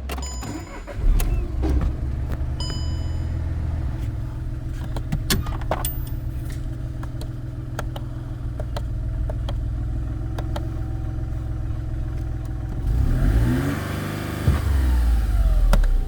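Skoda Fabia 1.2 TDI three-cylinder common-rail diesel engine idling steadily, with a few sharp clicks in the first seconds. It is revved up and let fall back near the end.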